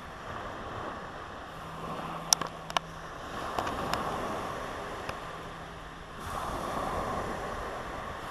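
Ocean surf washing onto the beach as a steady rush that swells about six seconds in, with a few sharp clicks a little over two seconds in.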